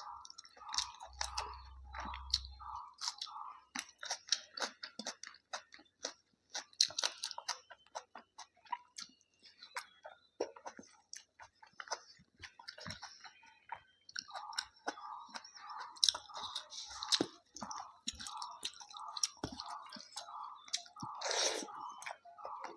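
A person chewing a mouthful of rice, chicken and salad, with wet mouth clicks and crisp crunches. The chewing runs steadily at about three chews a second near the start and again through the second half.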